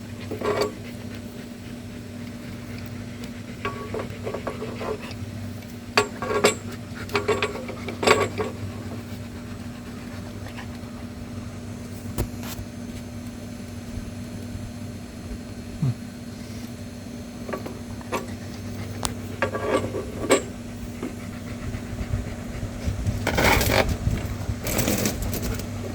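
Scattered metallic clicks and knocks of a pipe wrench and pipe fitting being handled as a water spigot is tightened onto its line, over a steady low hum.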